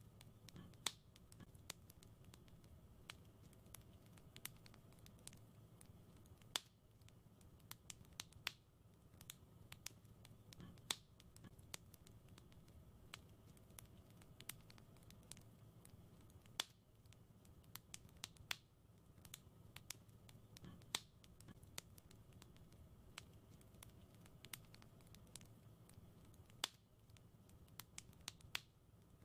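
Wood fire crackling in a fireplace: irregular sharp pops and snaps, a few louder than the rest, over a faint low, steady background.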